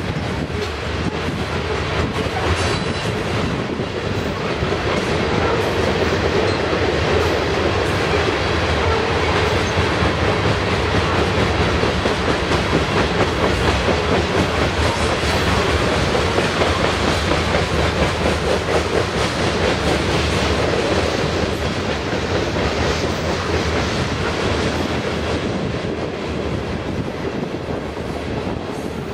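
A long freight train of ore cars rolling past, its wheels clattering steadily and continuously.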